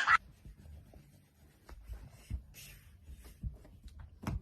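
Faint, scattered rustling and light scratching taps over a low rumble, with a sharper tap near the end.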